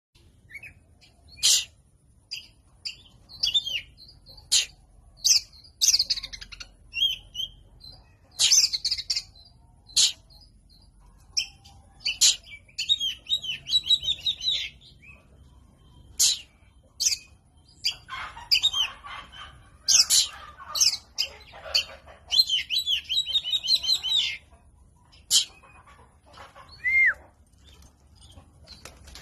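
Oriental magpie-robin (kacer) singing: loud, sharp single whistled notes spaced through, with longer runs of fast twittering song phrases, two of them several seconds long partway through.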